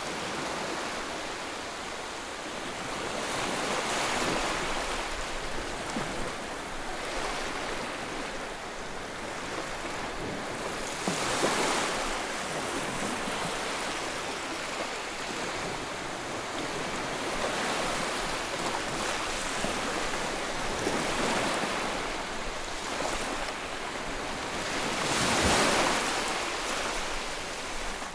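Ocean waves breaking on a shore, a steady wash of surf that swells with each wave every few seconds, the biggest about 11 and 25 seconds in.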